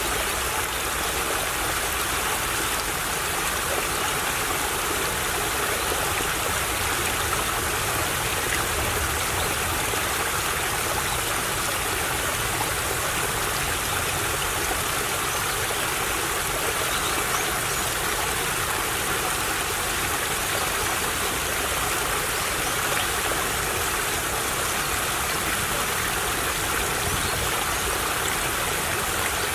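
A small stream babbling and trickling steadily.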